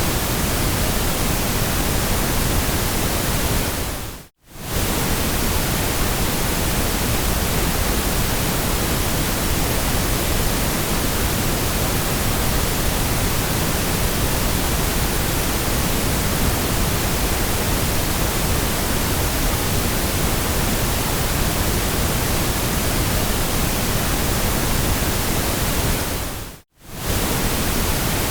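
Steady white-noise hiss, even and loud, with no pitch or rhythm. It fades out to silence for a moment and comes straight back, about four seconds in and again near the end.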